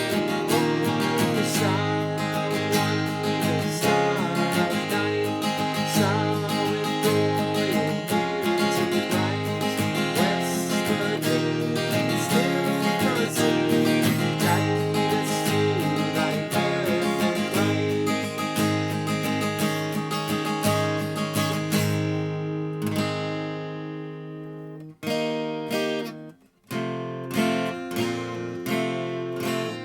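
Seagull S6 Mahogany steel-string acoustic guitar played with strummed and picked chords. Near the end a chord rings out and fades, there are two brief breaks, and the strumming starts again.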